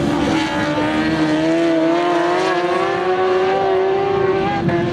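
Racing superbike engines held at high revs, a steady high-pitched note that climbs slightly.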